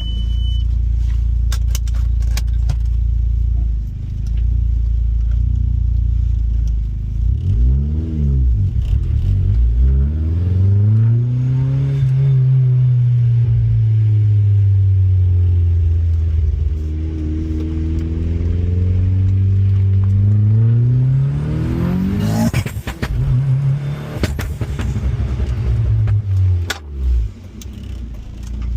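Audi car engine heard from a moving car: a steady low drone, then the revs rise and fall several times as it accelerates and eases off. A few short knocks and rattles come through along the way.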